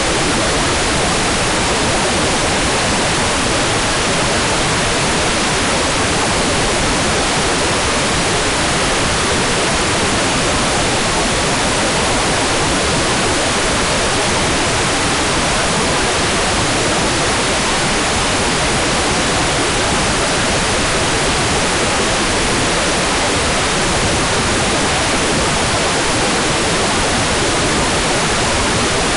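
Hair dryer running steadily: an even, unchanging rush of air with no clear pitch and no change in loudness.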